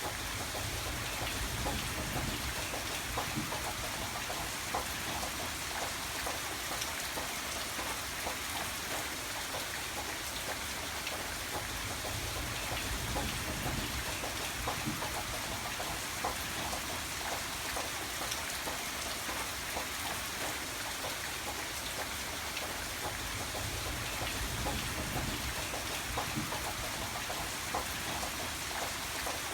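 Steady rain: an even hiss with many separate drops tapping on a surface, over a faint low rumble that swells and fades a few times.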